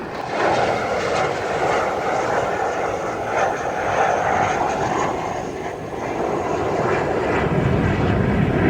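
Fighter jet flying past, its jet engine making a steady rushing noise that grows a little louder near the end.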